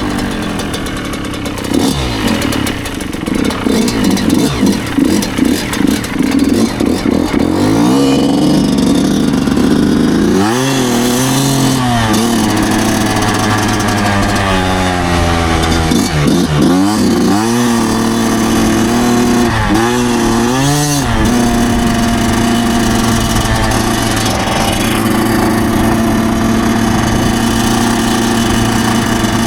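Yamaha YZ125 125cc two-stroke single engine under way, its revs rising and falling. It drops and climbs sharply several times around the middle, then holds a steady pitch near the end.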